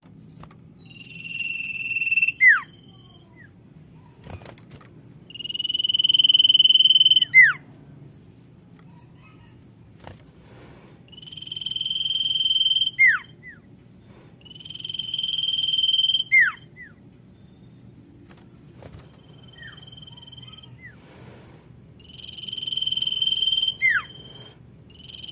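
Common iora (sirtu) calling: a long, swelling, drawn-out whistle that ends in a quick downward slur, repeated about six times, every four seconds or so. It is the female's call, used to lure males.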